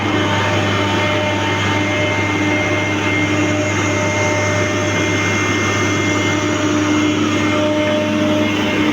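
John Deere excavator's diesel engine and hydraulics running steadily under work: a strong low hum with faint, steady whining tones above it.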